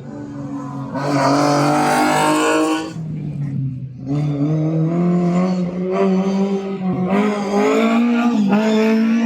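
A car engine revving hard as the car is driven on the track. It surges about a second in and eases off near three seconds, then pulls again with its note climbing slowly in pitch.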